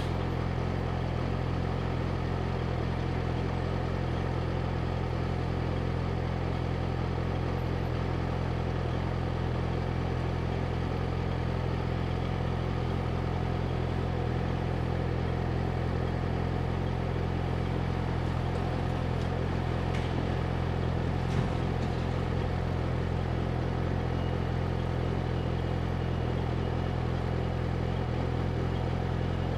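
Yamaha YZF-R6's inline-four engine idling steadily at a standstill, with no revving. A single brief click comes about two-thirds of the way through.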